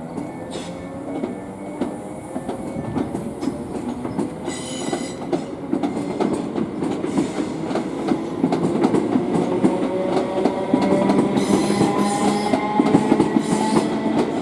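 Class 322 and Class 321 electric multiple units pulling away and accelerating. A motor whine rises in pitch over wheels clicking across rail joints, growing louder as the train comes past.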